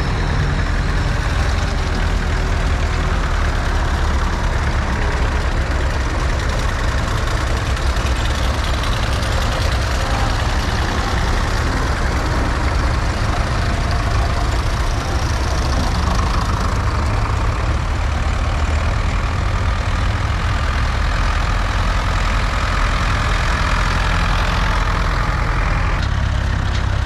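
Tractor engine running steadily: a loud, continuous low drone.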